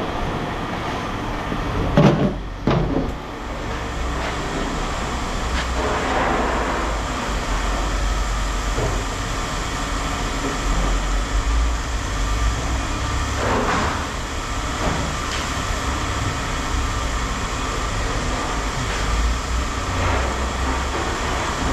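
Steady low rumble of a vehicle engine running, with a few sharp metallic knocks or clanks, two of them close together about two seconds in and another past the middle.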